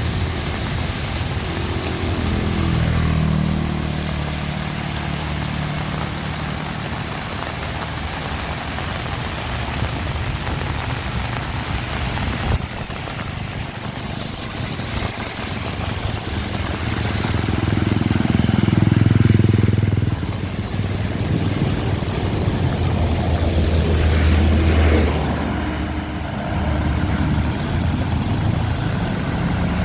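Steady rain with motor vehicles passing on the road: a low engine hum swells and fades a couple of seconds in, and a louder one passes about two-thirds of the way through, with another shortly after.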